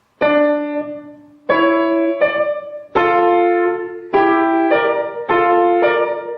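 Piano playing a short phrase in D minor: a series of struck, sustained chords. The chords sound about a second apart at first, then come closer together from about three seconds in.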